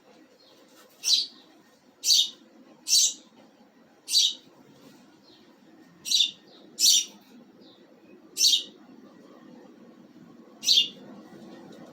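Pet birds chirping: eight short, high-pitched calls, each under half a second, spaced one to two seconds apart.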